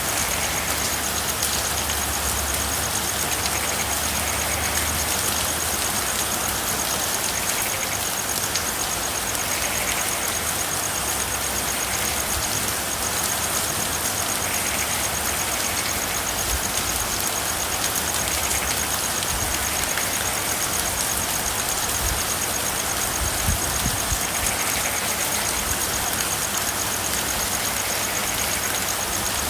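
Steady rain falling on a car's roof and windows, an even hiss with a thin high steady tone above it. Faint soft calls recur every second or two.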